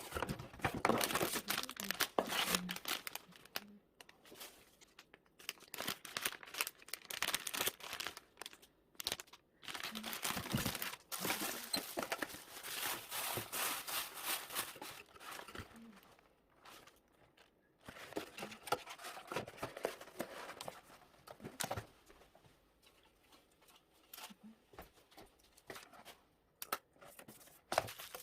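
Packing materials being handled: irregular bouts of crinkling, rustling and tearing, broken by short pauses.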